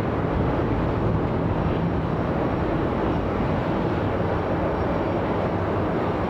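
Airbus A320-214 jet airliner departing under takeoff power: a steady jet engine noise heard from a distance.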